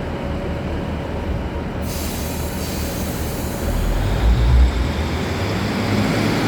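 Passenger train pulling out of a station: a steady low rumble, joined about two seconds in by a rush of higher noise, with the low rumble swelling to its loudest around four seconds in.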